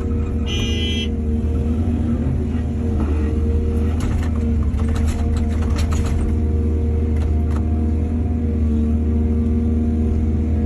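Heavy diesel engine of an excavator running steadily under load, a deep, even drone. A brief high-pitched tone comes about half a second in, and a cluster of knocks and clatter follows between about four and six seconds in.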